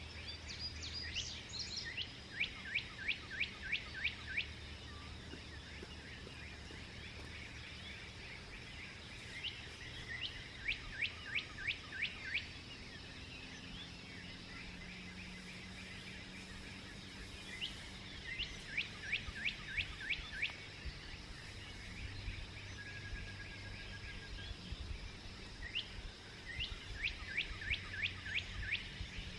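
A songbird singing the same phrase four times, about eight seconds apart: each phrase is a quick series of about seven evenly spaced falling notes. Behind it runs a steady outdoor hiss.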